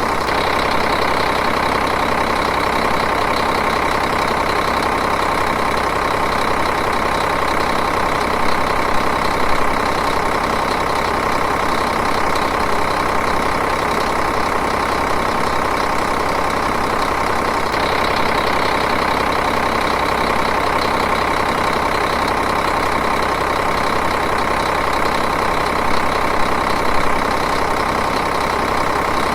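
Diesel engine idling steadily and evenly, with no revving.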